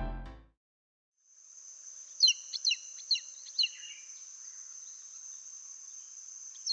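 A series of about five short, chirp-like, downward-sliding whistles from an Andaman Serpent-Eagle, with another series starting near the end. A steady high insect drone runs behind the calls. The tail of fading music is heard at the very start.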